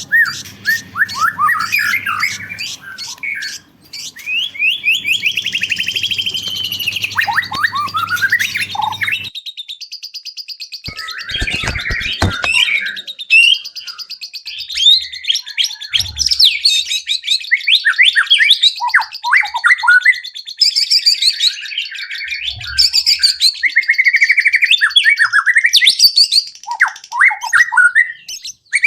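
White-rumped shama singing a long, varied song: quick trills and rapid repeated notes mixed with whistles that glide up and down, with hardly a pause. A low hum lies under the first third, and a few clicks come near the middle.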